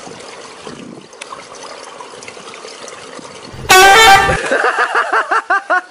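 A splash of water with a sudden loud, honk-like pitched blast about three and a half seconds in, followed by a quick run of short wavering pitched notes, about six a second.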